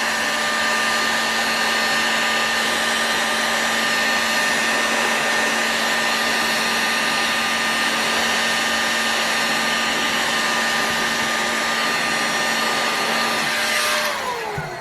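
Heat gun running steadily, a blowing fan with a high whine over it, then switched off about 14 seconds in, its motor whine falling as it spins down.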